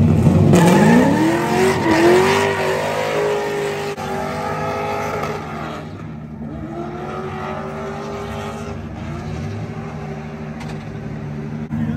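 Drift car engine revving: the pitch climbs over about a second and a half and holds high, drops about six seconds in, then climbs and holds again before falling back, over a steady low running note. The first rev is the loudest.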